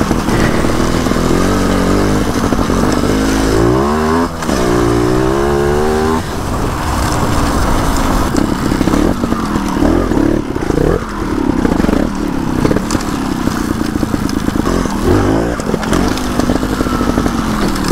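A 300 cc two-stroke trials motorcycle engine being ridden, revving up and down in repeated throttle bursts, with one longer rev climbing for a couple of seconds about four seconds in before dropping back.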